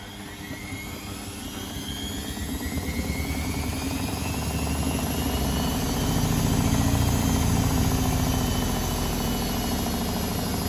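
Privileg Sensation 952 S top-loading washing machine spinning its drum up. A motor whine rises in pitch and grows louder for about six seconds, then holds at spin speed over a low rumble.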